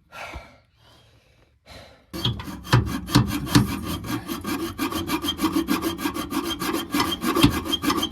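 Hacksaw cutting through a steel exhaust pipe by hand, in fast, even back-and-forth strokes. After a short pause, the sawing picks up about two seconds in and keeps going steadily.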